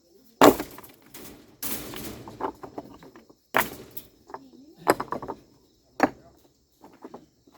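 A series of about five loud knocks and clatters a second or two apart, as of hard objects being struck or handled, over a steady high buzz of insects.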